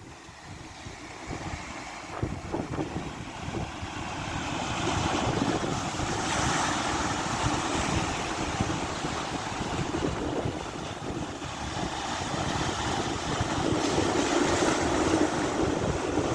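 Strong wind buffeting the microphone, with sea waves and surf beneath it. It grows louder after about four seconds.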